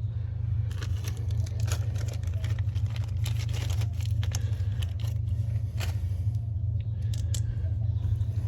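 Scattered clicks, knocks and rustles of hands working on parts, over a steady low hum.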